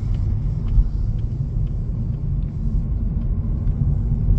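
Steady low rumble of a 2018 Hyundai Elantra 2.0 being driven, heard from inside the cabin: engine and tyre noise at an even pace with no revving, and a few faint ticks.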